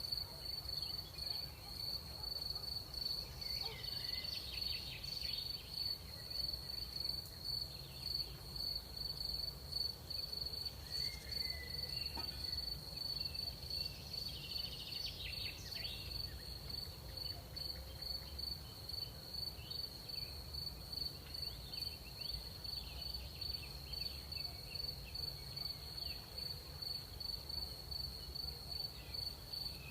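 Crickets chirping in a steady, fast pulsing trill, with a few fainter, scattered insect chirps now and then over a low background rumble.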